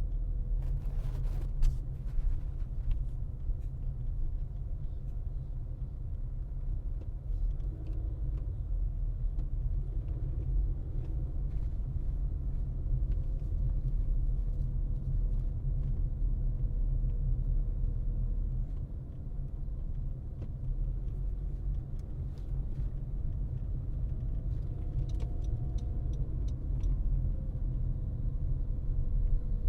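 A car driving, with a steady low rumble of road and engine noise and a faint hum running underneath. A few sharp clicks sound about a second in, and a short run of evenly spaced ticks comes near the end.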